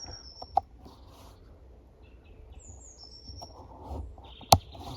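A small songbird singing a short, high phrase that falls in pitch, twice, with a steadier high note near the end. A sharp click about half a second in and a louder one near the end.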